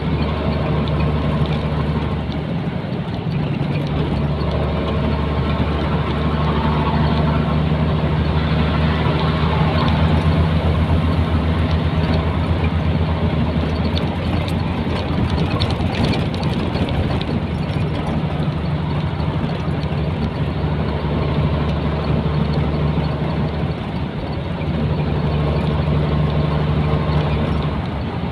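Nissan Diesel container truck's diesel engine running steadily under way, with a constant low drone and road noise. It gets slightly louder around ten seconds in and dips briefly near the end.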